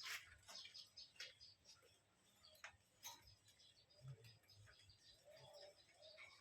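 Faint, scattered soft clicks and ticks with a few quiet bird chirps, the chirps mostly near the end.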